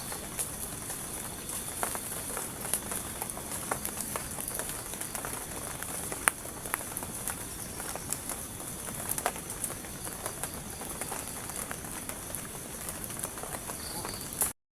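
Forest ambience: a steady high-pitched hiss or drone, typical of insects, with many small scattered patters and clicks; it cuts off suddenly near the end.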